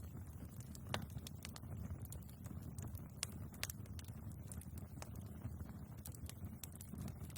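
Wood fire burning in a fireplace, crackling with irregular sharp pops and snaps over a steady low rumble; the loudest pop comes about a second in.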